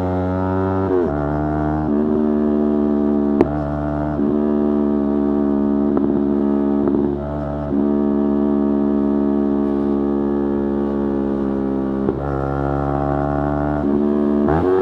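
Yamaha R3's 321 cc parallel-twin engine running under way at fairly steady revs, its note shifting briefly several times, with a short drop in level about seven seconds in.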